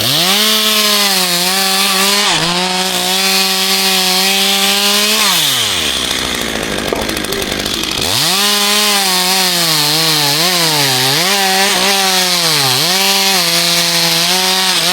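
Chainsaw cutting wood at full throttle, its engine note dipping as the chain bites and recovering between strokes. The throttle is let off about five seconds in, the saw idles for a few seconds, then revs up again and goes back into the cut.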